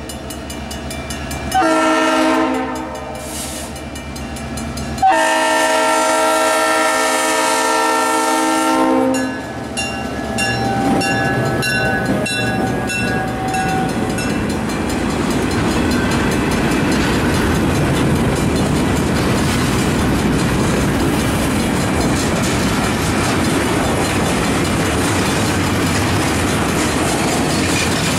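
Diesel freight locomotive's air horn sounding for a grade crossing: a few blasts, the last held about four seconds. About nine seconds in the horn stops and the train passes, its string of freight cars rolling by with a steady rumble of wheels on rail.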